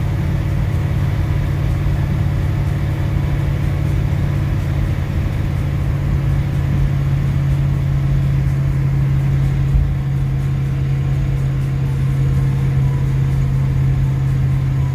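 Big-block Merlin V8 with headers and dual exhaust droning steadily while the car cruises at about 50 mph, heard from inside the cabin over road noise.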